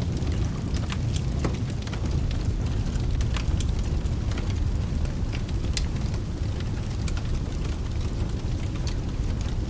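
Fireplace crackling, with scattered sharp pops, over steady rain. The tail of a low thunder roll fades away in the first second.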